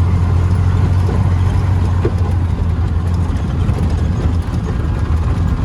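Vehicle engine running with a steady low drone and road noise, heard from on board while driving.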